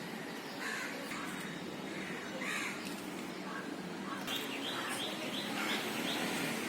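Faint bird chirping: a few scattered chirps, then a quick even run of high chirps, about six a second, from past the middle.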